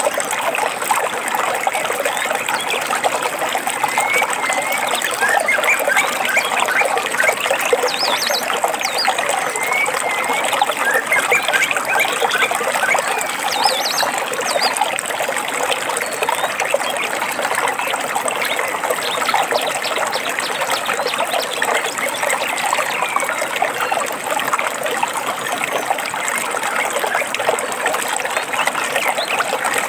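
A small stream trickling and splashing steadily, with birds chirping over it, most clearly through the first half.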